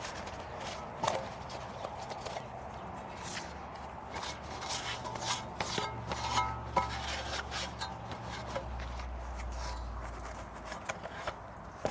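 Irregular hand rubbing and scraping strokes with a few light clicks, as transmission parts are scrubbed clean. A low steady hum joins about five seconds in and stops near the end.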